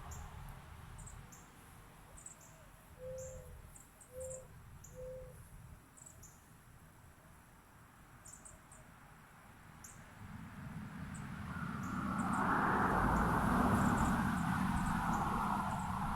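Small birds chirping in short, high, quick notes, with three short low notes about three to five seconds in. From about ten seconds in, a rushing noise builds and becomes the loudest sound, like a vehicle going by.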